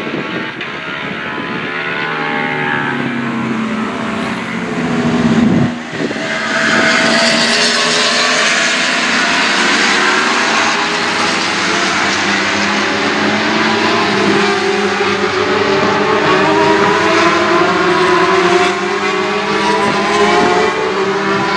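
Racing motorcycles at full throttle passing close by. One bike's engine pitch drops sharply as it goes past about six seconds in, then several bikes overlap, their pitches climbing as they accelerate away.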